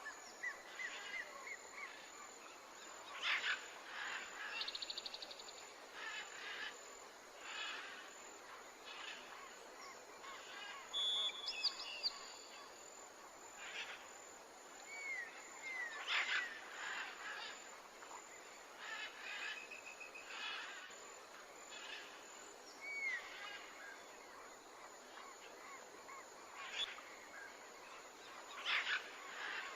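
Layered birdsong ambience: assorted birds chirping and calling in short curving notes and a couple of rapid trills, over a steady natural hiss, with a few louder short sounds now and then.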